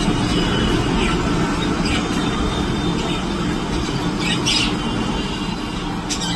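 A few short bird squawks, the clearest pair about four and a half seconds in and another near the end, over a steady low background rumble.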